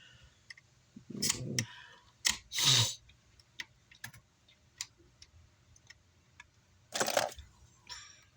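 Scattered sharp clicks and taps of small hand tools working on an amplifier circuit board while a capacitor is being removed, with three louder, brief scraping knocks: about a second in, near three seconds, and about seven seconds in.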